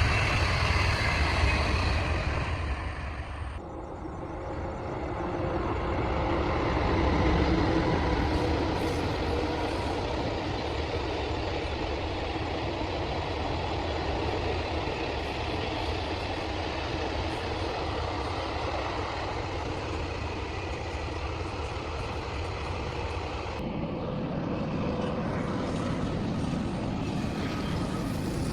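Steady rumbling vehicle noise with a hiss. It dips and shifts briefly about three seconds in, and changes character again near the end.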